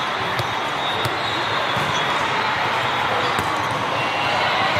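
Volleyballs being struck and bouncing on the court, heard as scattered sharp smacks, over a steady hubbub of a large, crowded hall.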